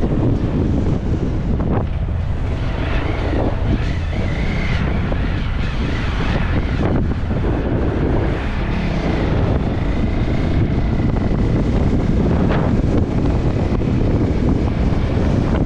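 Strong wind buffeting the microphone, a steady low rumble, with a vehicle running underneath and a faint steady whine in the later part.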